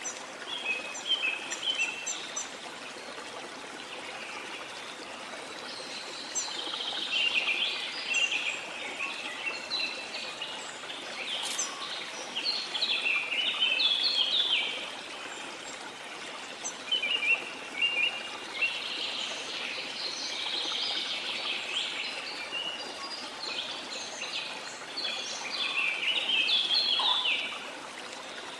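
Small songbirds singing in long phrases of rapid chirps, over a steady wash of sea and water noise.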